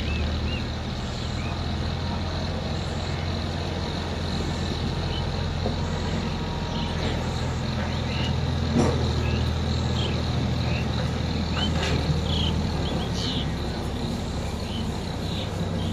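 Ford 3610 tractor's three-cylinder diesel engine running steadily with a low, even drone. Short high chirps come and go above it.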